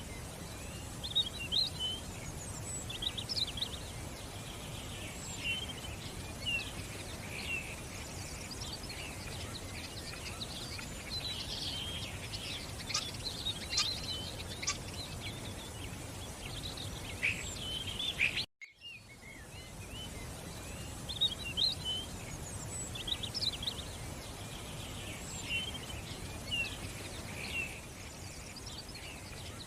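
Many small birds chirping and trilling at once over a steady murmur of running water. The sound breaks off for an instant about two-thirds of the way through, then resumes.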